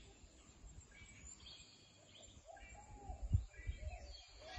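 Faint bird chirps and calls over an irregular low rumble of wind on the microphone, the gusts growing stronger in the last second or two.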